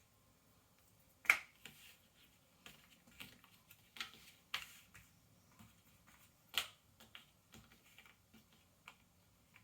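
Cardboard Ravensburger jigsaw puzzle pieces being handled and set down on a table: scattered light clicks and taps, the sharpest about a second in and another a little past six seconds.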